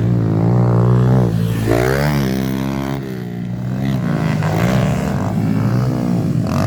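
Pit bike's small single-cylinder four-stroke engine revving under throttle around the dirt track. Its pitch climbs and drops several times as the rider opens and closes the throttle, easing off about three seconds in before pulling up again.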